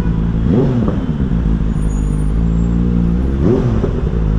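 Benelli motorcycle with a modified exhaust idling, warmed up, with a short throttle blip about half a second in and another near the end.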